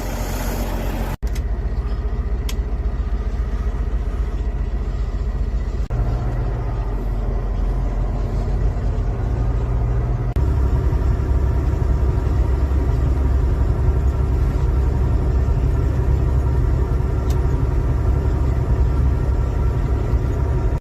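Steady low rumble of a car driving, engine and road noise heard from inside the cabin. It grows louder about ten seconds in.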